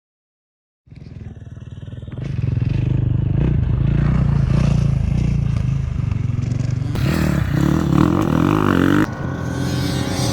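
Motocross bike engine running and revving, starting about a second in after silence. It comes in several short stretches joined by abrupt cuts.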